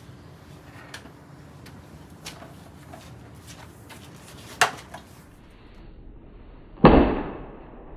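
Scattered light knocks and clicks, a sharp knock about four and a half seconds in, then a much louder thud near the end that trails off over about a second.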